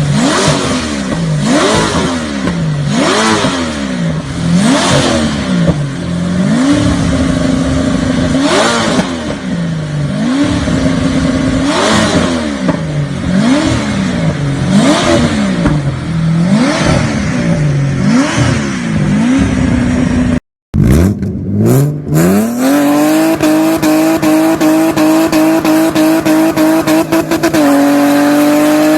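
BMW E30 engine being blipped repeatedly, one quick rev rising and falling about every second and a half to two seconds. After a brief cut, an engine climbs in pitch and holds high, steady revs, stepping up once more near the end.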